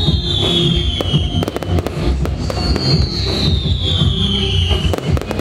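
Fireworks popping and crackling, with a cluster of sharp bangs about a second and a half in and more near the end, over loud music with heavy bass. A high tone slides slowly downward twice.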